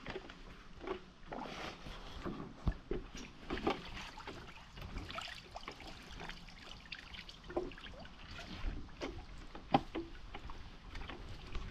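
Paddle strokes in water from someone sitting on an inflatable paddle board: irregular splashes and drips.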